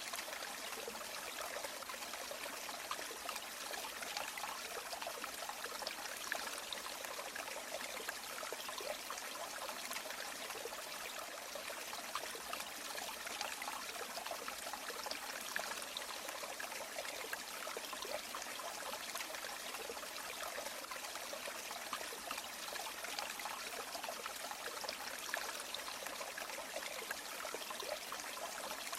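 River water flowing, a steady trickling, splashing rush with little deep roar and no pauses.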